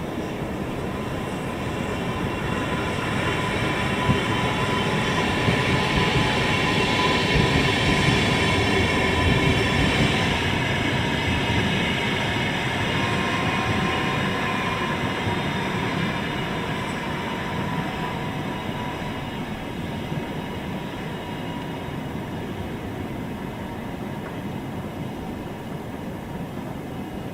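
Lastochka ES2G electric train running on the rails: a steady rumble with a faint whine. It swells over the first several seconds and then slowly fades.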